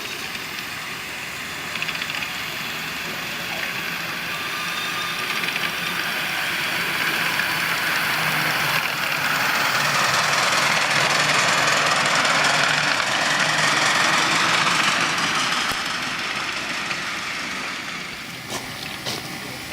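A miniature railway train running past: a rushing, rumbling noise that builds up, is loudest around the middle and then fades away.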